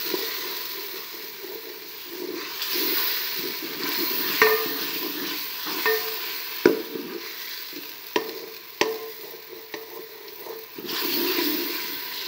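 Fried onion and garlic sizzling in oil in an aluminium pot as a spoon stirs and scrapes through them. Several sharp knocks of the spoon against the pot come in the middle, one ringing briefly.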